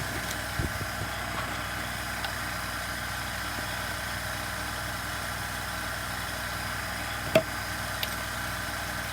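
Steady background hum while small parts are handled on a bench: a soft thump about half a second in and one sharp click about seven seconds in.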